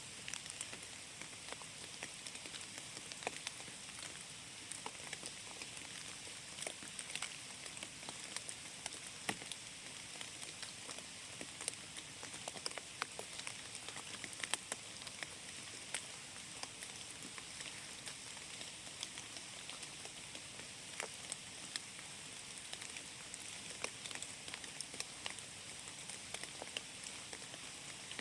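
Rain falling in a forest: a steady hiss with many scattered, irregular sharp taps of drops striking.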